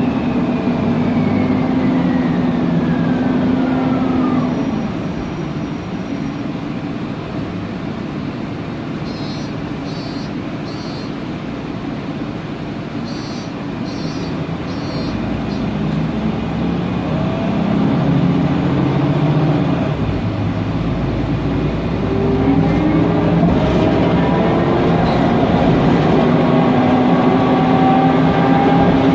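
Mercedes-Benz Conecto NGT city bus heard from inside: its CNG engine and Voith DIWA automatic gearbox whine fall in pitch as the bus slows, then go quieter for a while with faint ticking. Later the rising Voith whine returns as the bus pulls away and picks up speed.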